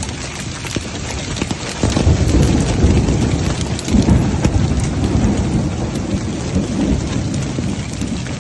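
Heavy rain pouring down, with many sharp ticks of drops striking a surface and a deep rumble that swells about two seconds in.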